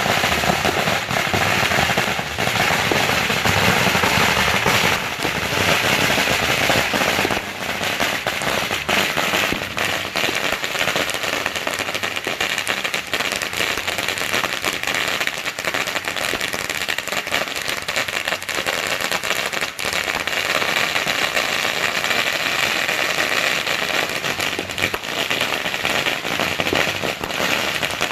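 Fireworks going off continuously: a dense, unbroken run of rapid small pops and crackles with no pause, as from strings of firecrackers.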